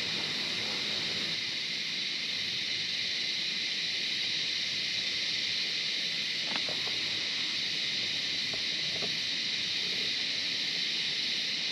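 Steady, unbroken drone of insects, with a few faint short ticks or chirps past the middle.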